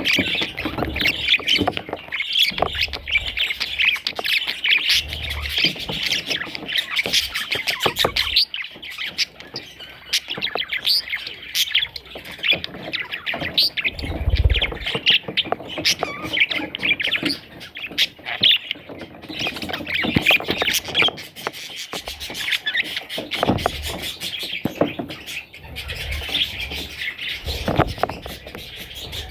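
Budgerigars chirping and squawking continuously, many short calls overlapping, with a few low bumps, the strongest about halfway through.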